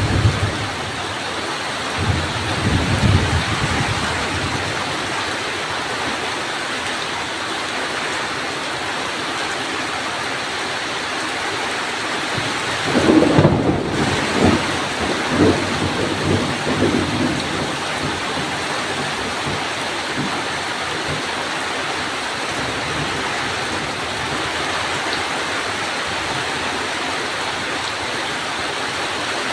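Heavy rain falling steadily during a thunderstorm. Thunder rumbles briefly a couple of seconds in, then a longer, louder roll of thunder comes about halfway through.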